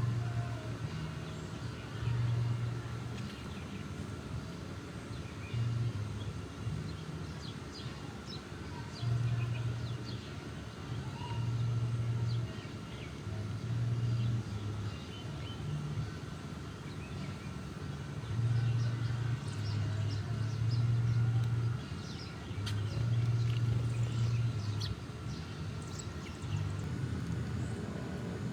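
Faint bird chirps over a low, droning hum that comes and goes every second or two.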